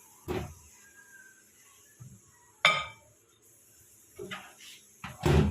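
A ceramic mug being handled at the microwave: a soft knock, a sharp ringing clink about halfway through, and a heavier thump near the end.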